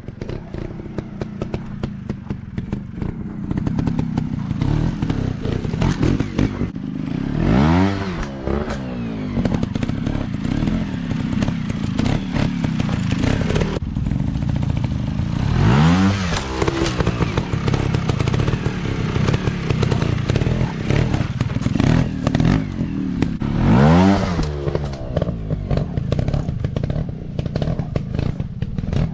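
Off-road dirt bike engines running with a rattly, clattering note, revving up and back down three times, about eight seconds apart.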